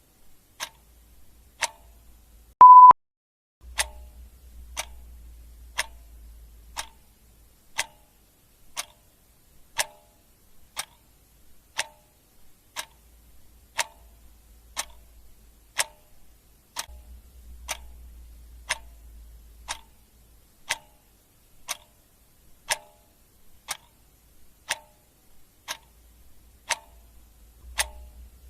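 Clock ticking steadily, about one tick a second. A short, loud electronic beep sounds once, a little under three seconds in, and a faint low rumble comes and goes underneath.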